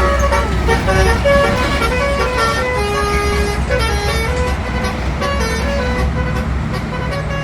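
Bus telolet horn playing a quick tune of short stepped notes, with a falling slide at the start, over a steady low engine rumble.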